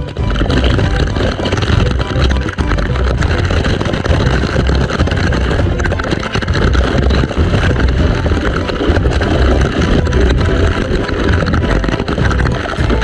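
Steady roar of a waterfall close to the microphone, with heavy low rumbling buffeting.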